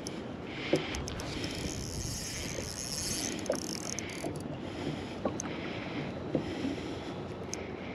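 Water sloshing against a kayak's hull, with a few light knocks scattered through.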